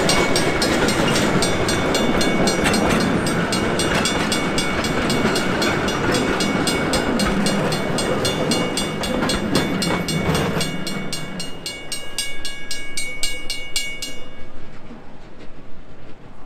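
Narrow-gauge steam-hauled passenger train running on the rails, with a fast, even beat of about four to five strokes a second over a loud rumble. The rumble drops away about two-thirds of the way through, and the beat stops near the end.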